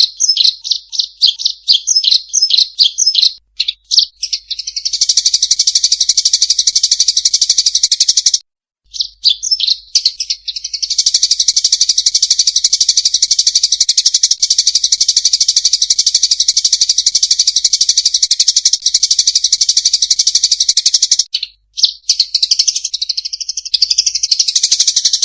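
Eurasian tree sparrows calling in a fighting chatter: a run of sharp repeated chirps at first, then long spells of fast, unbroken chattering with short breaks between them, and mixed chirps near the end.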